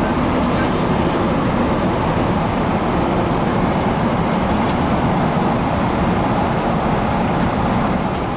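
Steady in-flight cabin noise of a Boeing 777-200ER: an even rush of airflow and engine noise, heaviest in the low range.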